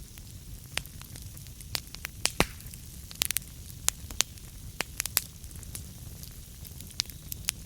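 Burning wood crackling: a steady low rumble and hiss of the flames with sharp, irregular pops and snaps, several in quick succession about three seconds in.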